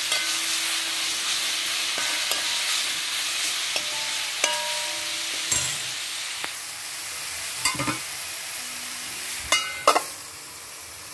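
Moringa leaf mix sizzling in hot oil in a wok, a spatula scraping through it now and then. About ten seconds in, a steel lid is set on the pan with a couple of metallic clinks, and the sizzle goes quieter.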